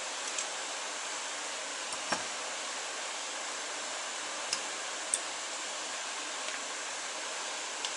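A few light metallic clicks and taps as guide pins and pads are fitted into a motorcycle brake caliper, over a steady hiss.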